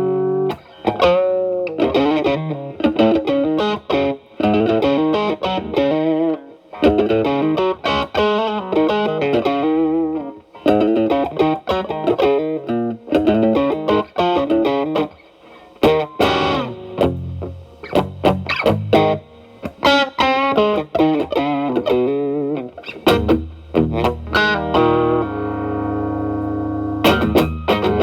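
Telecaster through an E.W.S. Brute Drive distortion pedal at low gain into a Marshall Valvestate amp's clean channel, playing bluesy lead phrases with bent notes, settling into a held chord near the end.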